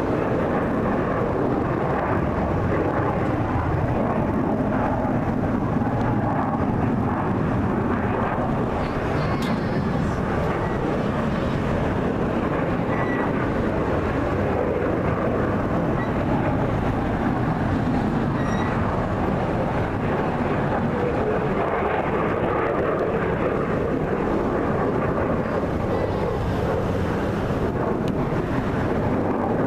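Aircraft engine noise, loud and steady, with no clear rise or fall.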